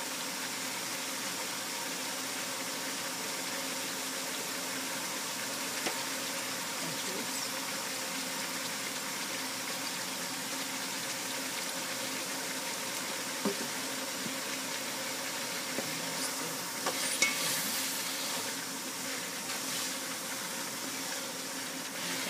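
Tomatoes, onions and dried fish sizzling steadily in oil in a frying pan. Near the end, a wooden spatula scrapes and knocks against the pan as the food is stirred.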